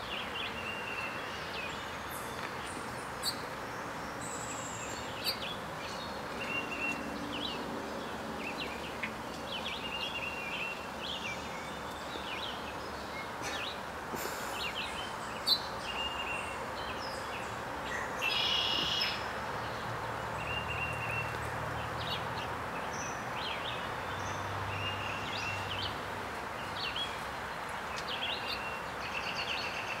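Outdoor ambience: small birds chirping in short, repeated calls over a steady background hiss, with a few sharp clicks and a brief noisy burst about two-thirds of the way through.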